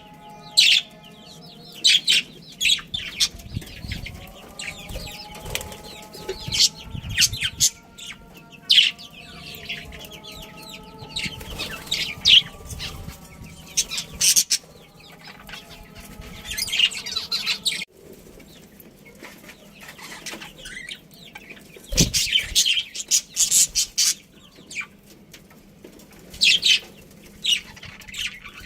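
Budgerigars chirping in quick, sharp bursts, with wings fluttering.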